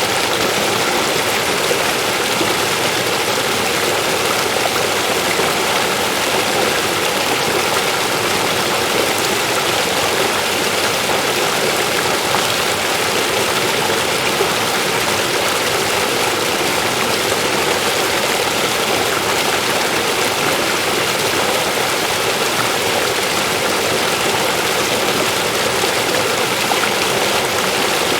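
River water rushing steadily over rocks, a continuous even rush.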